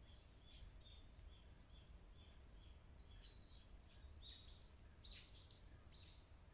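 Small birds chirping faintly over a low, steady background rumble: a run of short, evenly repeated high notes, then several varied chirps, the loudest about five seconds in.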